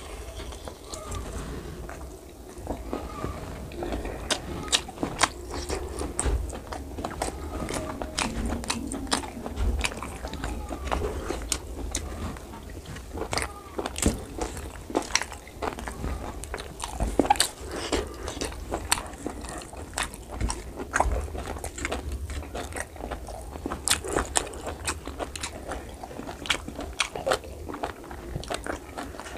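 Close-miked eating of pork curry and rice by hand: chewing and biting with frequent wet lip smacks and mouth clicks, along with squelches of fingers mixing rice and gravy.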